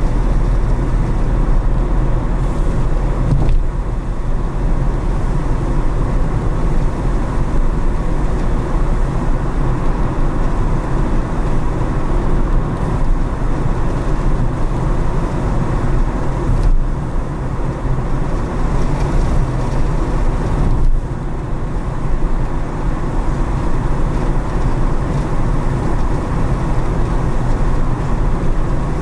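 A car driving through city streets: a steady low rumble of engine and tyres on the road.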